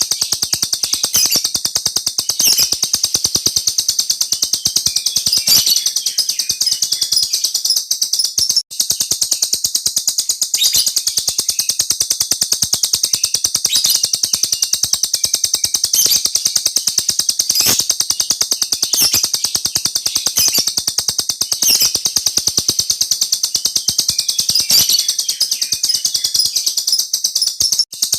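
A small cage bird singing one long, unbroken rolling song of very rapid high chirps, with two brief breaks: one about nine seconds in and one near the end.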